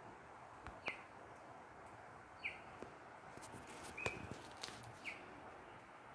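A bird calling with single short, high, falling chirps about every second and a half, over a steady outdoor hiss. A few sharp clicks come around the middle.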